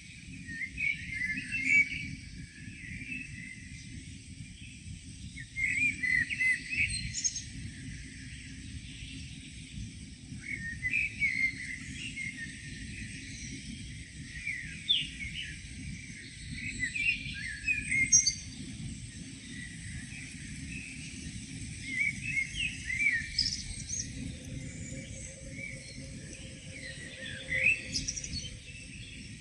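Songbirds chirping and singing in short bouts every few seconds, over a steady low background rumble.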